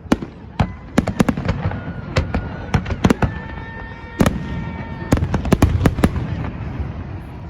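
Fireworks going off: an irregular, rapid string of sharp bangs and pops, with a held tone sounding through the middle.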